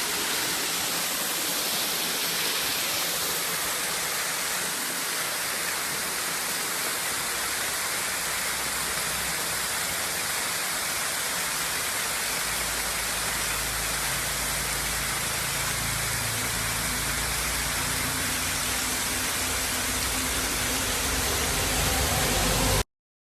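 Steady rushing of flowing water, like a river or waterfall. A low hum joins about halfway through, and everything cuts off suddenly just before the end.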